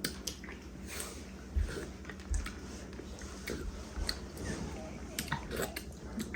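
People eating a seafood boil: chewing and mouth noises with scattered small clicks, and two low knocks a little under a second apart.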